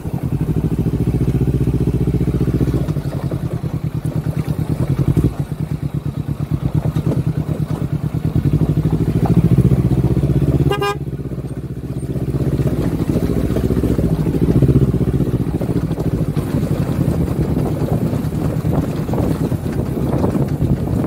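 Kawasaki Versys 250 motorcycle's parallel-twin engine running at low road speed, its note shifting with the throttle. A short beep comes about eleven seconds in, and the engine eases off for a moment right after it.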